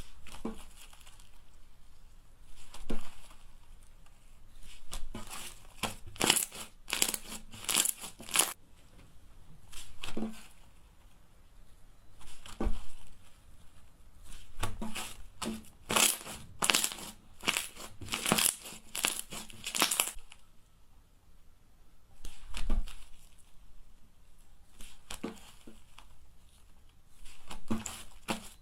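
Slime being worked by hand, giving clusters of crackling, crunching pops with quieter stretches between.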